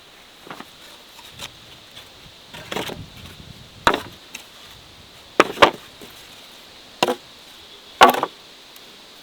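A series of sharp knocks, about six, irregularly spaced, the loudest near the end.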